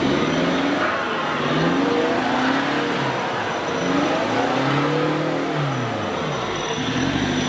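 Off-road competition vehicle's engine revving, its pitch rising and falling several times, with the longest rise and fall about four to six seconds in.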